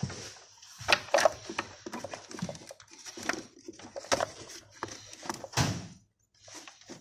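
Irregular clicks, knocks and light rattles of hand-worked engine parts and fittings as a mechanic works a part loose on a BMW M54 engine's intake side, the sharpest knocks about a second in and near the end.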